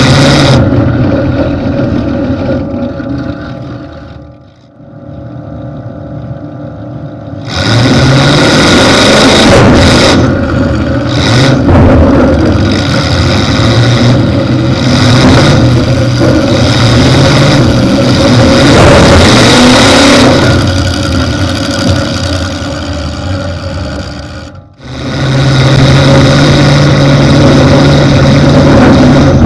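V8 engine of a 1992 Cadillac Brougham hearse derby car, open exhaust stacks through the hood, running loud and revving up and down. The engine note falls away around four seconds in, comes back loud with a rising rev at about seven seconds, and cuts out again for a moment just before twenty-five seconds.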